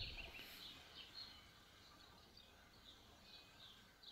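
Near silence outdoors, with faint, scattered bird chirps over a quiet background, after a brief low rumble at the very start.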